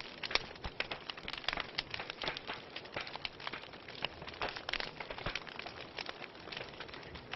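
Wood fire crackling, with many sharp irregular pops and snaps over a soft steady hiss.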